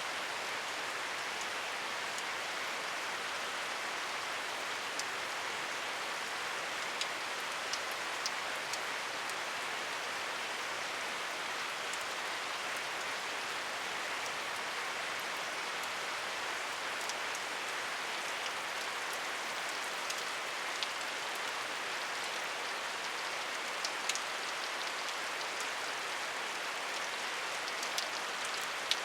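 Steady rain falling, an even hiss with scattered individual drops ticking sharply on a surface now and then.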